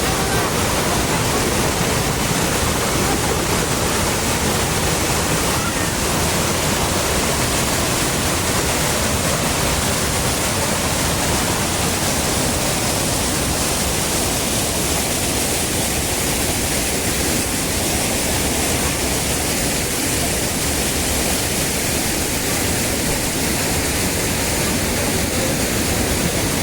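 Waterfall running in full monsoon flow: a loud, steady rush of falling water.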